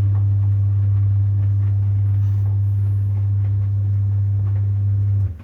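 Samsung DV80M5010IW heat pump tumble dryer running with a loud, deep, steady hum. The hum stops abruptly near the end.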